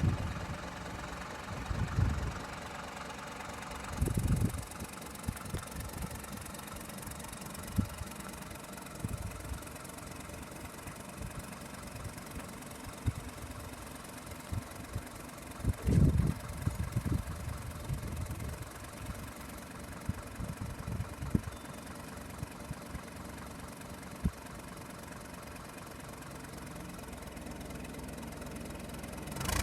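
Kubota M-120 tractor's diesel engine idling steadily, with a few low thumps now and then.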